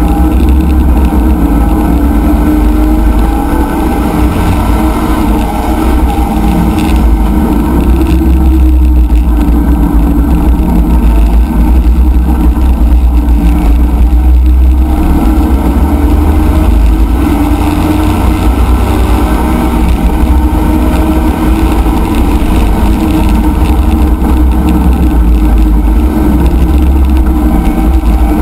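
C5 Corvette race car's V8 engine running hard at speed, heard loud from inside the stripped cabin. The engine note eases as the car slows for a corner about halfway, then climbs again as it accelerates out.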